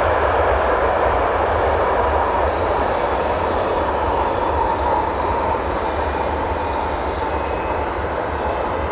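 Airbus A321's twin IAE V2500 jet engines running after touchdown, a steady loud rush of noise with a faint whine, gradually growing quieter.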